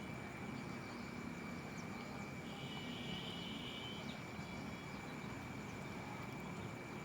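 Steady outdoor background noise with a thin, constant high-pitched tone, and a short high buzzing trill from about two and a half to four seconds in.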